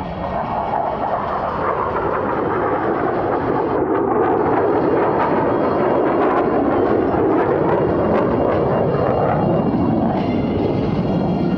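Jet engine noise from the Blue Angels' Boeing F/A-18 Super Hornets making a low pass. It builds over the first couple of seconds and then holds loud and steady.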